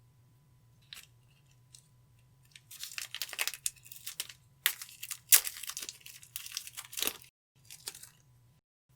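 Clear slime being squeezed and stretched by hand, giving a run of sticky crackling and popping that starts a few seconds in, after a couple of single clicks. It breaks off into dead silence near the end, with one short burst between.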